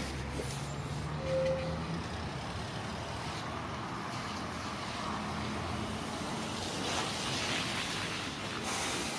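Scania coach running with a steady low engine drone. A hiss rises about seven seconds in and cuts off sharply near the end.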